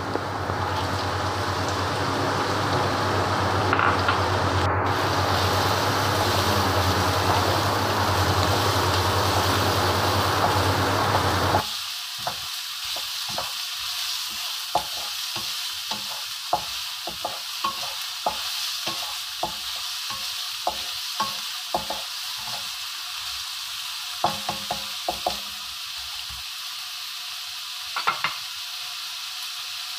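Diced carrot and garlic sizzling in hot oil in a nonstick frying pan, stirred with a wooden spatula. For about the first twelve seconds the frying is louder and steady, with a low hum underneath; this cuts off suddenly. After that a quieter sizzle continues, broken by many short scrapes and taps of the spatula on the pan.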